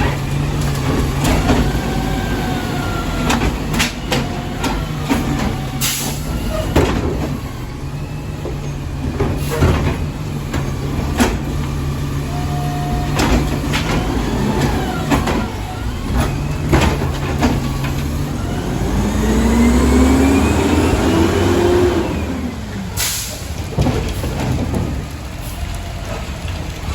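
Garbage truck running while trash carts are banged against its hopper, with many sharp bangs over a steady engine. Near two-thirds through, a rising whine as the engine speeds up to work the hydraulics, and two short air hisses.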